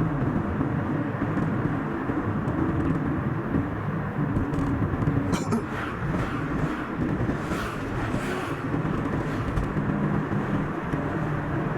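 Car driving along a highway: steady engine and road noise, played back at double speed, with a few brief hissing swells about halfway through.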